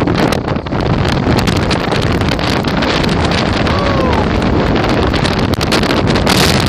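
Strong storm wind buffeting the microphone: loud, steady rushing and rumbling noise. A brief faint arched tone can be heard about four seconds in.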